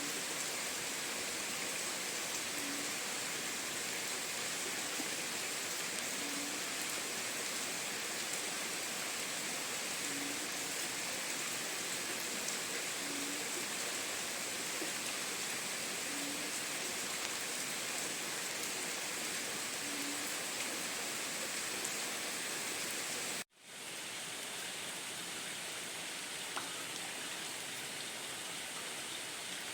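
Steady rain. About 23 seconds in it cuts out abruptly for a moment and comes back slightly quieter.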